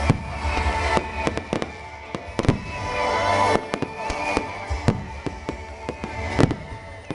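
Fireworks going off: a rapid, irregular string of bangs and crackling reports, some much louder than others, with music playing underneath.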